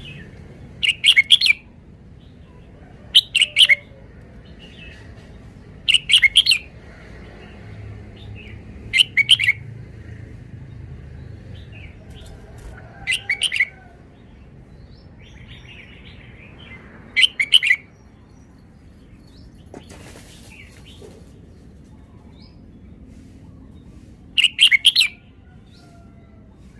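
Red-whiskered bulbul singing short, loud, chirpy phrases, about seven in all, each under a second and a few seconds apart.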